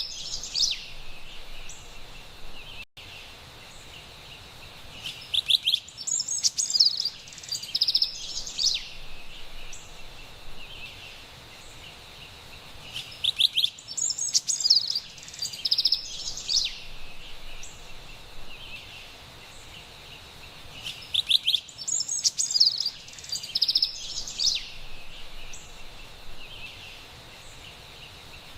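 Carolina wren song phrases in bursts about every eight seconds, each a quick run of rapid high notes, over a steady faint high-pitched background hiss. The level dips out for an instant about three seconds in.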